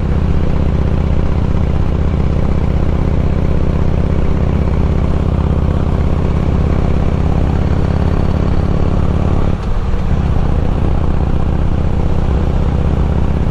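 Harley-Davidson Road King's V-twin engine running steadily while the motorcycle rides along at cruising speed. The engine note drops out briefly about two-thirds of the way through, then carries on as before.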